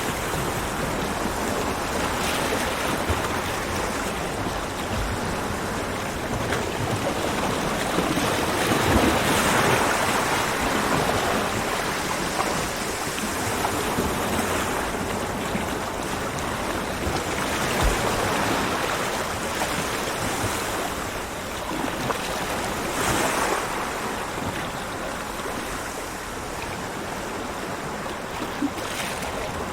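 Ocean waves breaking and washing up a beach in a continuous rushing surf, with the biggest swell of surf about nine seconds in and another near 23 seconds.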